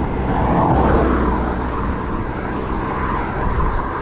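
Wind rushing over a bike-mounted action camera with the rumble of road-bike tyres rolling, swelling slightly about a second in.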